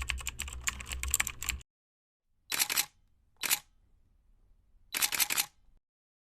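Rapid, dense clicking with a low hum underneath for about a second and a half, then three short bursts of clicks separated by silence.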